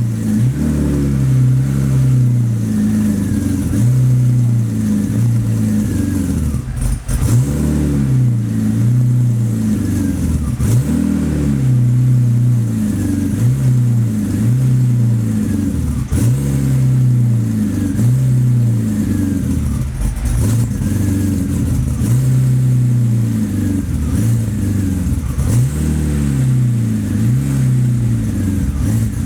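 BMW 850 (E31) V12 engine, cold, being revved in short repeated throttle blips, its revs rising and falling about every two seconds.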